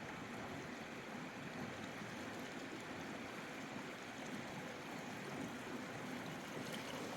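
A river flowing, with a steady rush of water.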